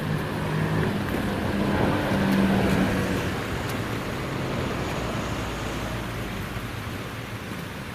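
Motor vehicle engine running close by. It makes a steady low hum that steps up slightly in pitch about a second in and fades under an even outdoor noise after about three seconds.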